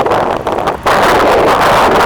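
Supercharged 350 V8 of a 1970 Chevrolet Camaro running on the move, heavily masked by wind buffeting the microphone; the noise jumps abruptly louder a little under a second in.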